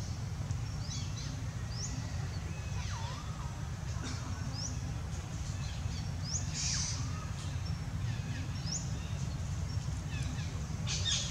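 Outdoor ambience with birds calling: short high rising chirps every second or so and a few lower curving calls, over a steady low rumble.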